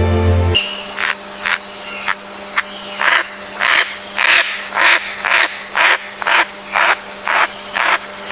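Green parrot squawking: a run of short, harsh calls repeated about twice a second, louder from about three seconds in.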